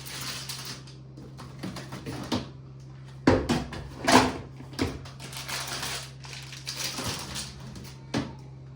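Food packages and freezer shelves being handled while items are rearranged in a fridge-freezer: irregular clicks, knocks and plastic rustling, loudest a little after three and four seconds in, over a low steady hum.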